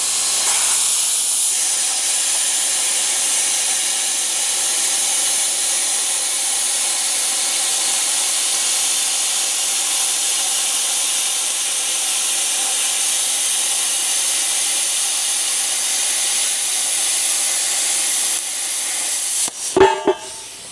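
Arc Captain Cut 55MP plasma cutter, set to 50 amps, cutting metal: a loud, steady hiss from the torch that drops near the end. A few sharp knocks follow just before it cuts off.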